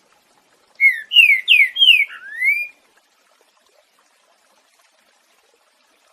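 Green-winged saltator (trinca-ferro) singing one phrase of its 'boiadeiro' song: about five loud, clear whistled notes lasting about two seconds. The first four slur downward and the last one rises at the end.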